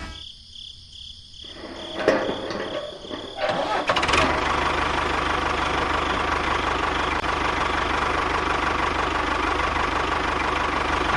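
A small engine starting: a click about two seconds in and a few seconds of uneven sputtering, then it runs steadily with a low even pulse.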